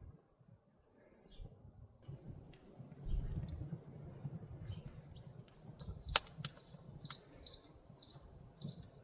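Outdoor ambience: a steady high-pitched insect trill under short, repeated bird chirps, with a low rumble coming in about three seconds in and a single sharp click near the middle.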